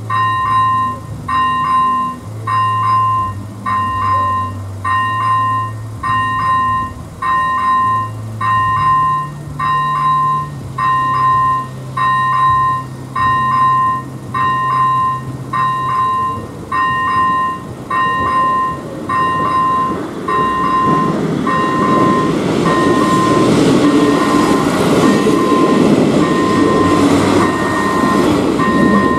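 An AŽD 97 level-crossing warning signal's first-generation electronic bell dinging about once a second, a pitched electronic chime. Under it a train's low engine hum changes pitch in steps. From about twenty seconds in, the train passes over the crossing with a rising rumble and wheel noise, the loudest thing near the end.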